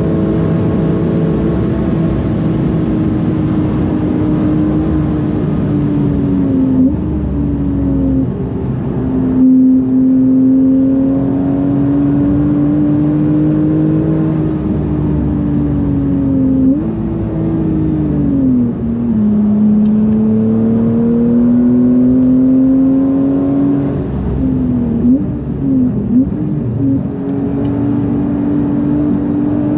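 Porsche 991.2 GTS's twin-turbo flat-six, fitted with bigger turbos, running hard on a fast lap. The engine note climbs steadily under power and drops sharply at each upshift. Several quick rev blips come late on, typical of downshifts under braking.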